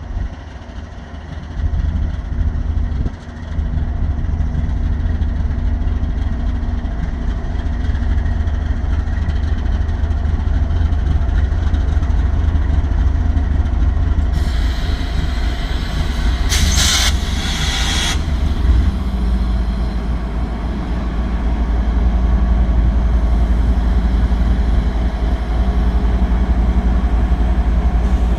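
GE ES44AC diesel locomotive's V16 engine idling with a deep, steady rumble. About fourteen seconds in, a hiss of air starts and swells into sharper blasts before stopping about four seconds later.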